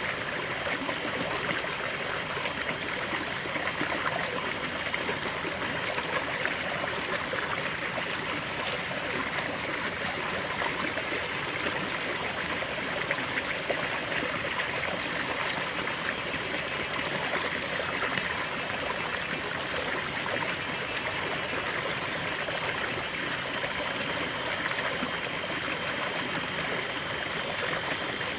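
Small forest waterfall and stream flowing steadily, water splashing and trickling over rocks.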